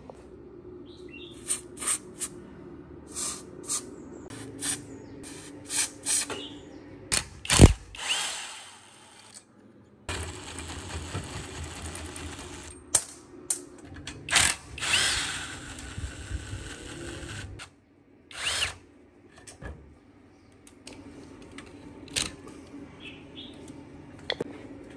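A power tool runs in short spells, broken by many sharp metal clinks and knocks, with hard cuts between takes about 10 and 17 seconds in.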